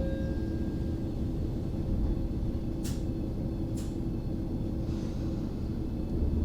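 Train running with a steady low rumble, and two sharp clicks about a second apart near the middle.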